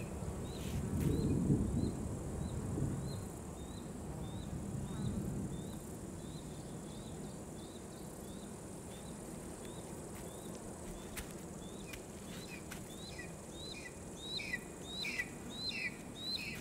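A bird calling in a steady series of short rising chirps, about two a second, joined near the end by louder, lower chirps, over a faint outdoor hiss.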